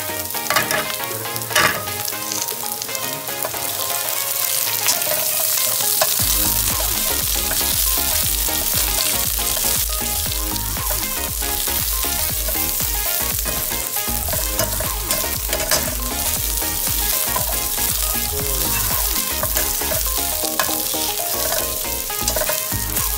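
Sliced red onion and garlic sizzling steadily as they fry in a stainless steel pan, stirred with a spatula.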